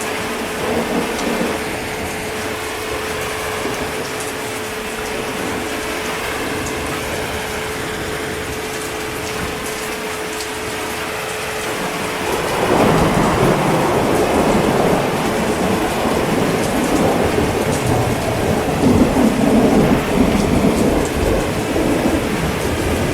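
Steady heavy rain. About twelve seconds in, a long low roll of thunder starts and rumbles on, swelling again near the end. A faint steady hum sits under the rain until the thunder begins.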